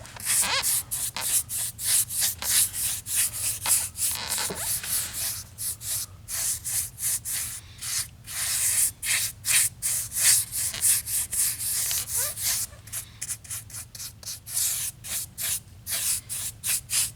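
Paintbrush scrubbing a dark gray wash onto a model's painted concrete floor in quick, repeated scratchy strokes, several a second.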